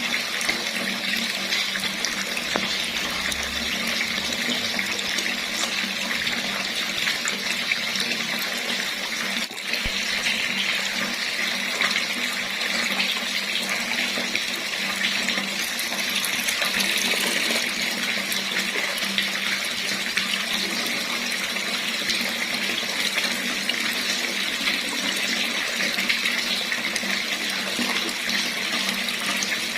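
Tap water running steadily from a faucet and splashing below, an even rushing hiss.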